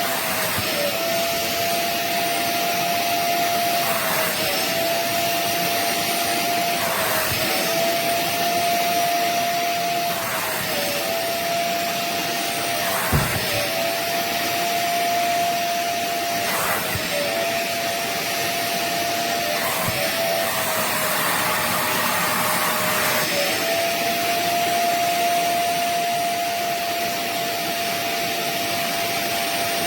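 Rivenara 450 W upholstery wet-vacuum cleaner running steadily with a constant whine. Its pitch dips briefly about every three seconds with a short rush of air, and there is a longer noisy stretch near the end and a brief click about halfway through.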